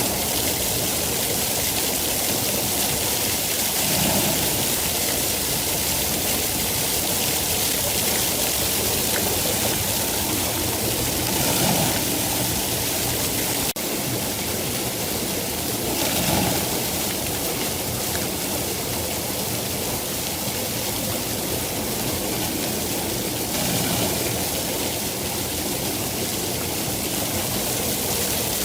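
Steady, heavy rainfall, a continuous hiss of falling water with slight swells. About halfway through there is a single sharp click with a momentary dip, likely an edit join in the recording.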